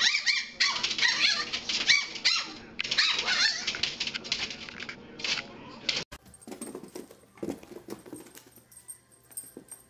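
Small puppies yapping and barking rapidly in high-pitched yaps for about six seconds. The yapping cuts off abruptly and gives way to faint, scattered knocks.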